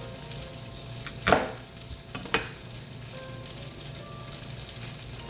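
Two sharp knocks about a second apart, the first louder, fitting a knife on a cutting board as an onion is cut. Under them runs a steady hiss with faint background music.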